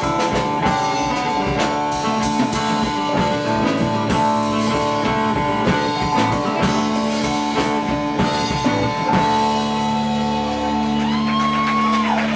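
Live rock band with electric guitar and drum kit playing the closing bars of a song. The drums stop about nine seconds in and a final chord is held, with a note sliding up and back down near the end.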